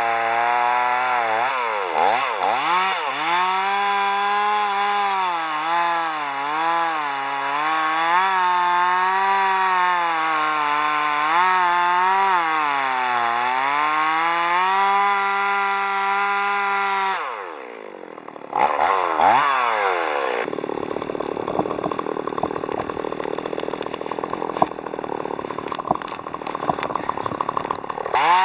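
Two-stroke chainsaw running at high speed, its engine pitch dipping and recovering again and again as it bogs into the wood. About seventeen seconds in the engine note falls away briefly, and a rougher, rattling cutting sound follows.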